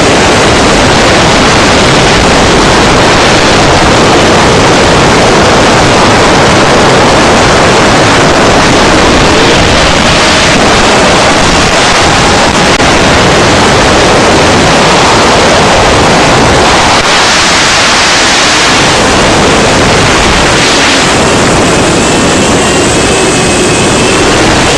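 A 6-inch FPV quadcopter in flight, heard from its onboard camera: loud rushing wind on the microphone over the whine of the motors, which rises and falls in pitch.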